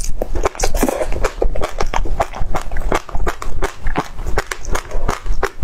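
A mouthful of passion fruit pulp being chewed, the seeds crunching in a fast, uneven run of crisp clicks.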